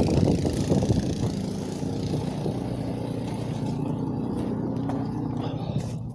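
Strong wind buffeting the phone's microphone: a steady low rumble with a hiss on top that thins out about four seconds in.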